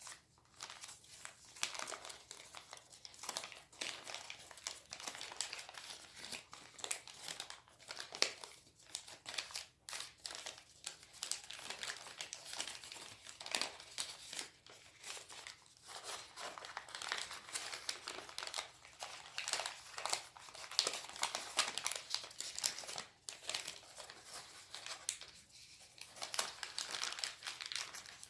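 A sheet of origami paper being folded and creased by hand, with irregular rustling and crinkling broken by many small crackles.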